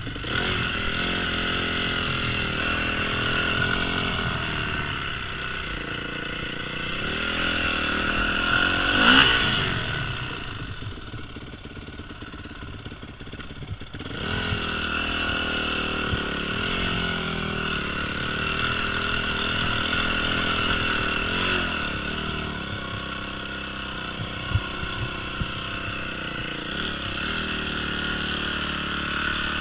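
Yamaha YZ250F dirt bike's single-cylinder four-stroke engine running while riding, its pitch rising and falling with the throttle. It revs up sharply about nine seconds in, runs lower and quieter for a few seconds, then picks up again.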